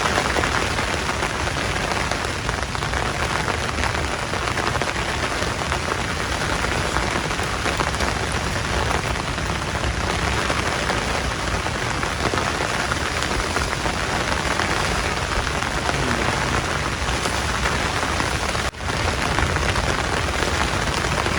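Heavy rain falling steadily in a dense hiss, with a brief dropout near the end.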